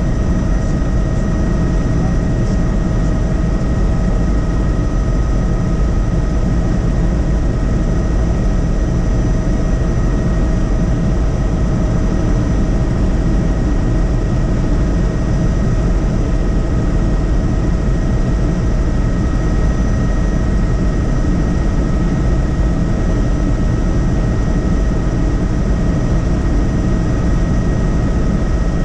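Helicopter in cruising flight: a steady, loud rotor and engine drone with a constant high turbine whine over it.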